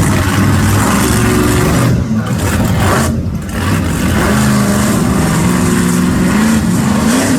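Monster truck engine revving hard, the throttle lifted briefly twice, about two and three seconds in, before it pulls again.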